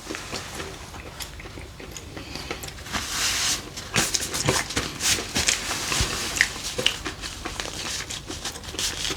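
A person biting and chewing pan-fried battered chicken, with irregular crunches and mouth clicks.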